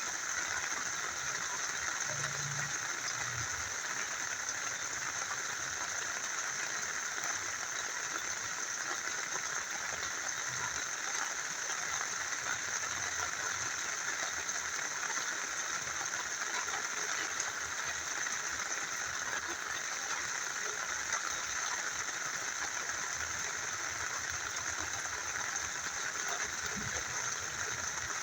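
Small river flowing: a steady, even rush of water that does not change.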